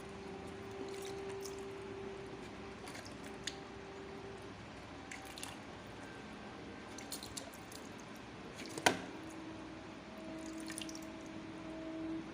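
Small, scattered clicks and taps, typical of a parrot working its beak on food or cage parts, with one sharp snap about nine seconds in, over a faint steady hum.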